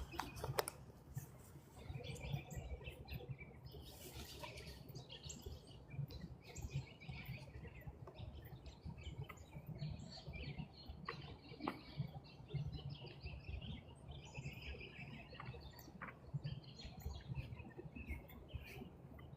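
Small birds chirping and twittering on and off, over a steady low rumble, with a few sharp clicks.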